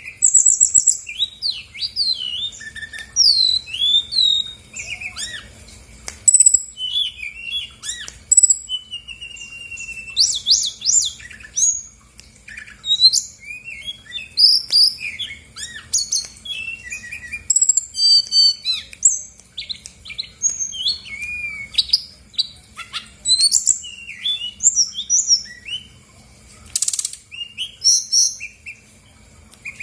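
Brown-chested jungle flycatcher (sikatan rimba dada coklat) singing a continuous, rapid, varied song of whistles, short trills and chirps, running through its repertoire of learned songs.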